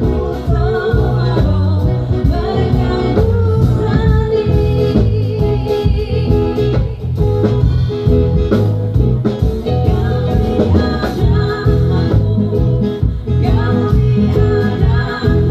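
A band playing with singing and guitar, recorded on a device with poor, distorted sound and a heavy, boomy low end.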